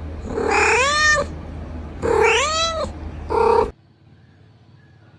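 Domestic cat meowing three times: two long meows that rise and then fall in pitch, then a short one. The sound cuts off abruptly after the third.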